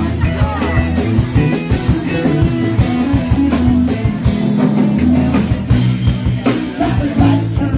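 Live rock band playing: electric guitar lines over bass and drum kit.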